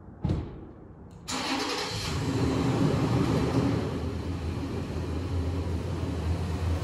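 A single thump, then about a second later a Toyota 4Runner's engine cranks, catches and settles into a steady running hum.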